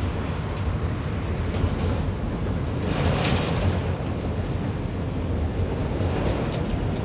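Enclosed autorack cars of a manifest freight train rolling past below, a steady low rumble of wheels on rail, with a brief high squeal a little under halfway through.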